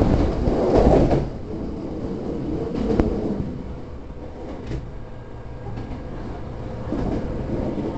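Hankyu electric commuter train running on the line: a loud rumble of wheels and running gear that drops off sharply after about a second to a steadier, quieter rumble, with a couple of sharp clicks along the way.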